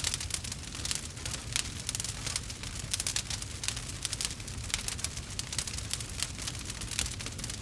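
Wood fire crackling, with many small, irregular snaps and pops every second over a low rumble of burning logs.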